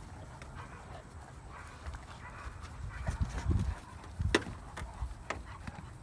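Cane da Presa Meridionale mastiffs moving about over a low rumble, with scattered clicks and knocks; the sharpest click comes about four seconds in.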